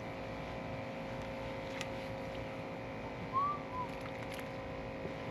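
Steady hum of a small fishing boat's motor, with a short rising-and-falling whistled call, like a bird's, a little past three seconds in.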